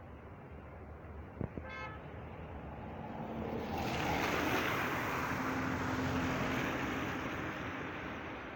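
A car passing by: tyre and engine noise swells to a peak midway, then fades, over a steady background rush. A click and a short pitched beep come just before it.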